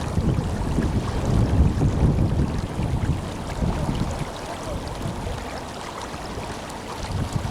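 The Tenryū River flowing strongly, a steady rush of water, with wind buffeting the microphone as a gusty low rumble. It eases for a couple of seconds in the second half, then picks up again.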